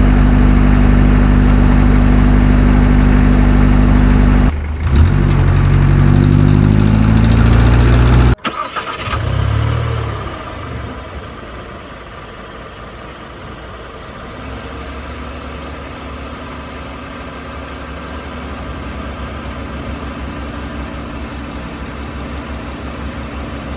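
Engine running loudly and steadily, then rising in pitch as it revs, cut off suddenly about eight seconds in; a much quieter, steady low engine idle follows.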